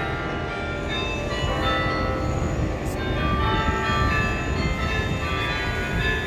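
The Belfry of Bruges carillon, its 47 bells ringing together on the hour in many overlapping pitches, over a steady low rumble.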